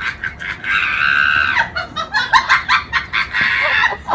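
Animal calls: a rapid series of short, sharp calls, with one longer high call about a second in.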